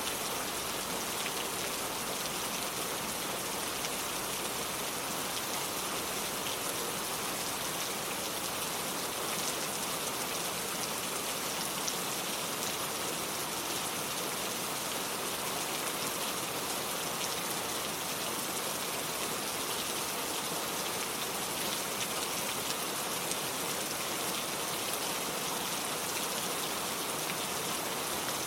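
Steady rain falling and pattering on hard surfaces, an even hiss with faint drop ticks.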